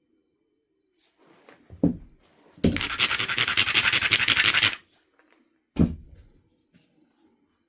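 Stone abrader rubbed fast against the edge of a Knife River flint biface, a dense scratching that lasts about two seconds. It is set between two single thumps, one shortly before and one after.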